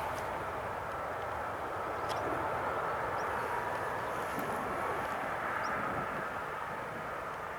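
Jet airliner engines heard at a distance, a steady rushing noise with a faint high whine.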